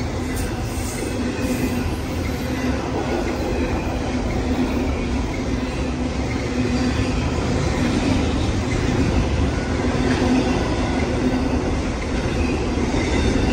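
BNSF double-stack intermodal freight cars rolling steadily past at close range: continuous noise of steel wheels on rail, with a steady low tone running through it.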